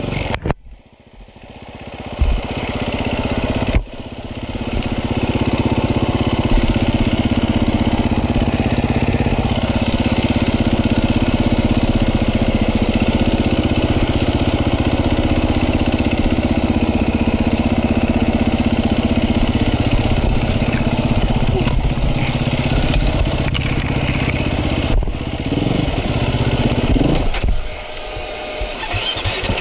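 KTM enduro motorcycle engine running while the bike is ridden slowly over rocky ground. The engine sound drops away about a second in and picks back up over the next couple of seconds, then runs steadily, easing off again near the end.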